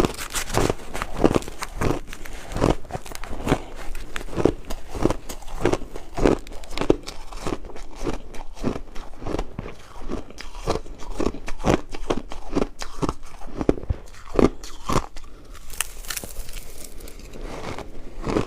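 Ice being bitten and chewed close to the microphone: a rapid run of sharp crunches and cracks, several a second, keeping on without a break.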